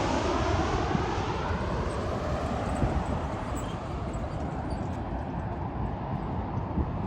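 An airplane's engines fading away after it passes close by, their pitch gliding down, and leaving a low rumble.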